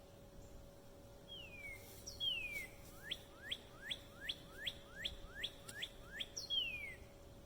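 A songbird singing whistled notes: two downward-sliding whistles, then a run of about nine quick rising notes, then one more downward slide near the end. A faint steady hum runs underneath.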